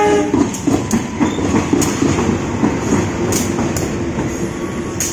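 Train passing close by: a loud, steady rumble of wheels on rails, with scattered sharp clicks.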